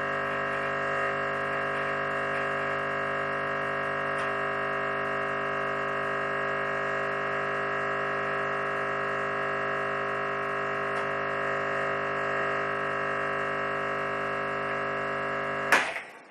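Espresso machine's pump running with a steady hum during a backflush against a blanking disc. It cuts off with a sharp click near the end.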